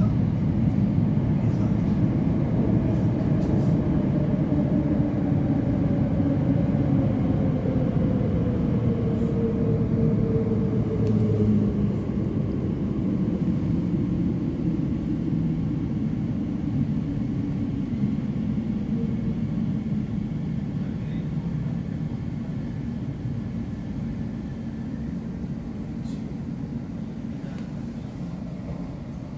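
Inside a Bombardier Class 345 electric train slowing into a station: a steady running rumble with a motor whine that falls in pitch, the whole sound slowly getting quieter.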